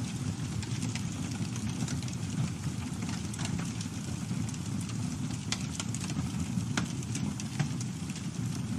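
Campfire burning steadily, a low rumble of flames with frequent small crackles and sharp pops from the burning wood.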